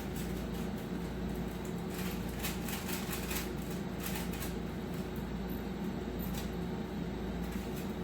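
A steady low mechanical hum of room machinery, with a few soft clicks of eating, chewing and utensil sounds, about two to four and a half seconds in.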